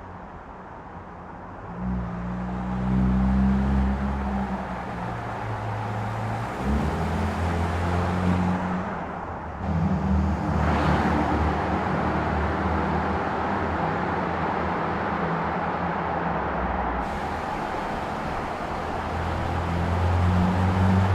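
Car engine running with road noise, its low tone shifting in pitch in steps, and a vehicle passing by about ten seconds in.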